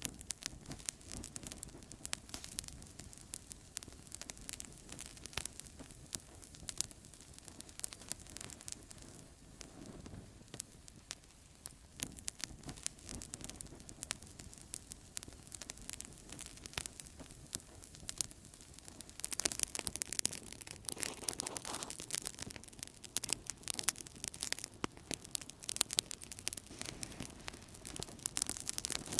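Outdoor campfire crackling: a steady hiss of burning wood with many sharp snaps and pops, which grow denser and louder about two-thirds of the way through.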